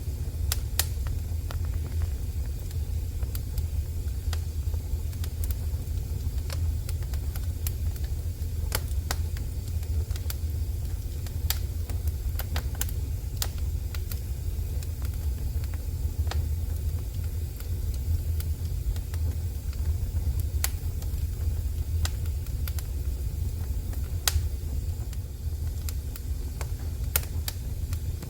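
Wood fire in a fireplace crackling, with irregular sharp pops and snaps scattered over a steady low rumble.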